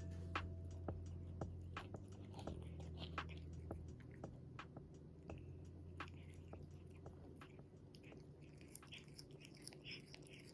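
Close eating sounds: irregular chewing and crunching, a run of small crisp clicks.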